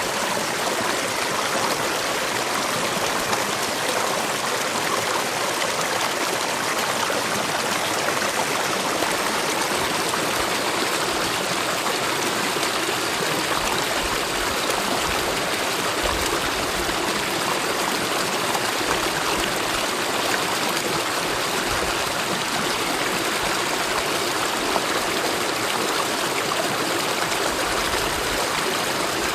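Mountain valley stream flowing steadily, an even rush of water with no change throughout.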